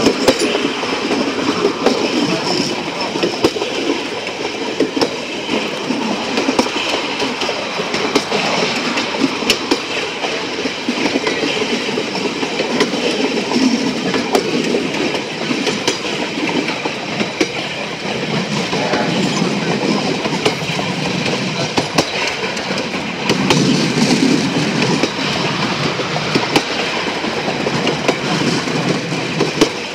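Train running along the rails, heard from the back of the train: a steady rumble of wheels on track with scattered clicks and clacks as the wheels pass over rail joints.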